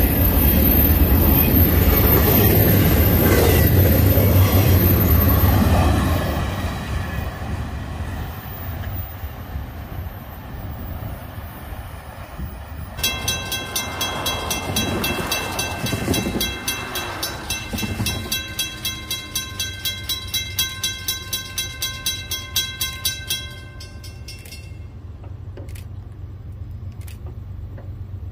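Florida East Coast Railway freight train of well cars rolling past, its wheels clattering on the rails, fading away over the first several seconds. After that, a grade-crossing bell rings steadily at about two strokes a second and stops a few seconds before the end.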